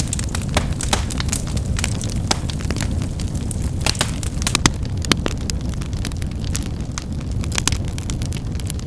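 Firewood burning, crackling and snapping in quick, irregular pops over a steady low rumble of the flames. Two louder snaps come a little past the middle.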